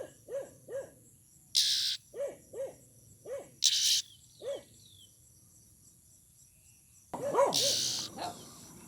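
Greater coucal calling: a series of deep, hollow hooting notes, with a few short harsh rasps in between. It falls quiet for a couple of seconds, then starts again louder and faster about seven seconds in.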